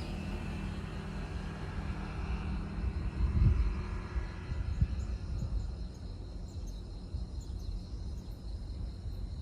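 Outdoor harbour ambience at dawn: a steady low rumble with irregular low thumps, the strongest about a third of the way in, and faint short high chirps repeating through the second half.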